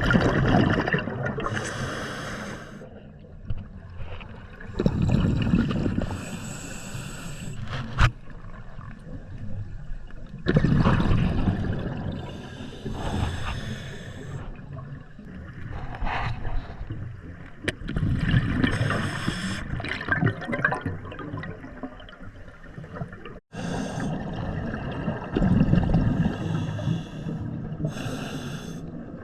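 Scuba diver breathing through a regulator underwater: a hiss on each inhale and a bubbling gush on each exhale, repeating every few seconds.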